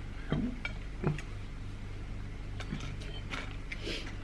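A steady low hum, with about five short, soft clicks and taps spread across it from eating and handling food at the table.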